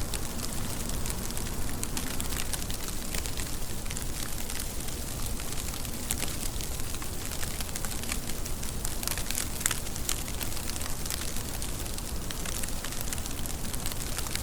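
Steady rain falling, a constant hiss dotted with many irregular sharp ticks of drops striking a surface.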